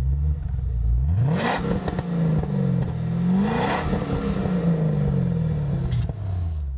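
1973 Alpine A110 1300 Berlinette's four-cylinder engine revving up hard twice, about a second in and again around the middle, each climb topped by a brief rush of noise. The revs then fall away near the end.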